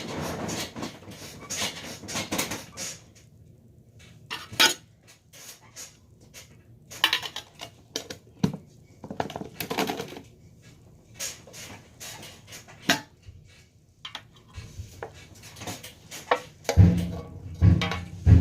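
Irregular clicking and clattering of small hard objects being handled, with a few heavier, deeper thumps near the end.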